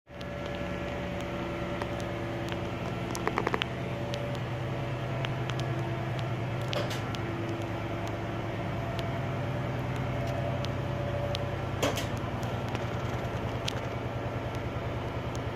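Ship's diesel generator running steadily, a rapid even pulsing hum with a few light metallic clicks.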